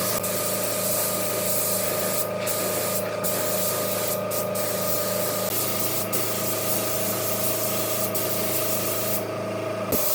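Spray gun hissing as it lays on finish, with several short breaks and a longer pause near the end, over a steady machine hum.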